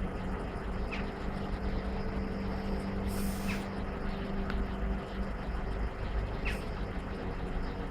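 Road traffic idling at the closed level crossing: a steady low engine hum that drops away about five seconds in, with a short hiss, like an air brake releasing, about three seconds in. A few faint bird chirps.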